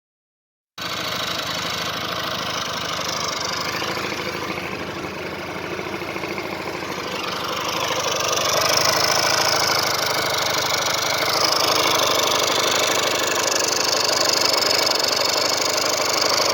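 Small motorcycle engine running steadily, starting abruptly just under a second in and getting louder about eight seconds in.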